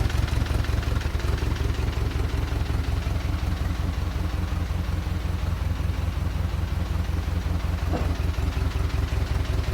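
GAZ-MM four-cylinder side-valve (flathead) engine, freshly rebuilt, running steadily at idle with an even low pulsing beat.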